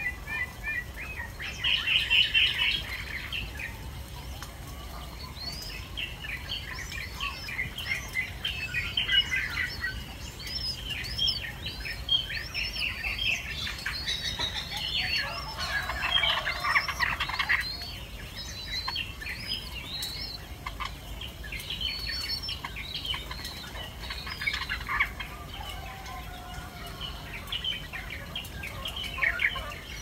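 Birds chirping and squeaking over and over, in quick short high notes. About halfway through, a burst of wing-fluttering lasts a couple of seconds.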